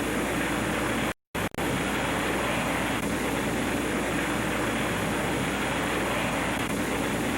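Steady jet engine noise of a Boeing B-47 jet bomber in flight, broken by a brief gap of silence about a second in.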